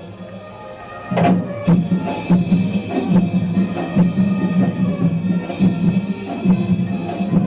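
Marching band playing with drums keeping a steady beat; the music dips at first and comes back in with a loud drum hit about a second in.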